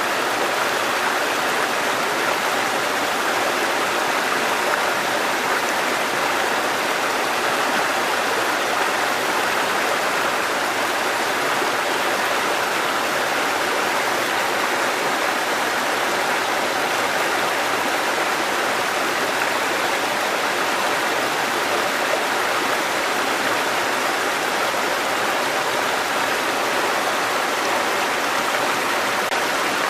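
Water cascading down a mountain stream, a steady rushing with no change in level.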